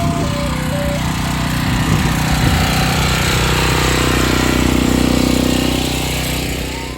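Ice cream truck's engine running loud and close, swelling to its loudest about four to five seconds in and easing off near the end. Its chime tune plays briefly at the start.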